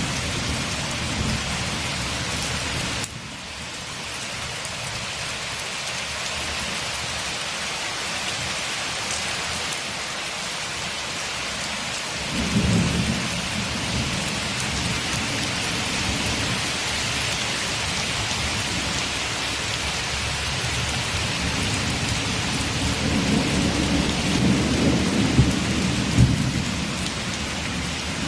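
Steady heavy rain, with low thunder rumbling about twelve seconds in and again, louder, near the end. The rain drops suddenly in level about three seconds in.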